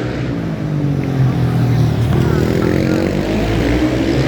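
Supermoto motorcycle engines running hard during a race, with the pitch climbing as a bike accelerates about two seconds in.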